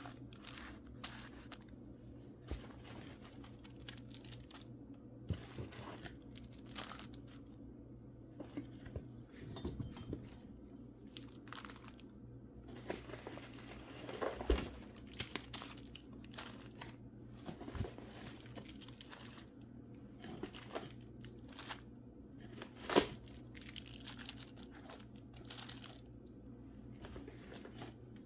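Packing material crinkling and tearing as mineral specimens are unwrapped by hand, in irregular rustles with scattered clicks. There is a sharp knock about two-thirds of the way through.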